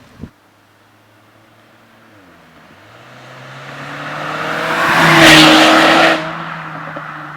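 Car engine sound building steadily louder for a few seconds to a loud peak, then dropping off suddenly about six seconds in, over another engine idling steadily.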